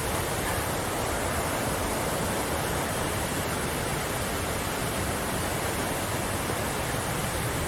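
Waterfall rushing steadily: a constant, even noise of falling water.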